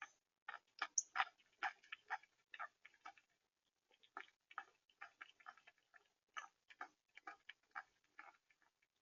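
Animals feeding at a bird feeder: faint, irregular sharp ticks and taps, several a second, with a short pause a little past the middle.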